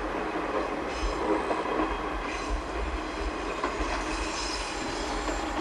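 A KiHa 120 single-car diesel railcar running past at a distance, with the steady rumble of its wheels on the rails. Thin, high wheel squeals come and go through it.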